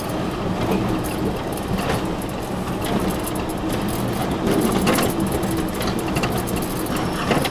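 Four-wheel-drive vehicle's engine running steadily at low speed, with scattered knocks and rattles from the vehicle as it works through a shallow creek crossing.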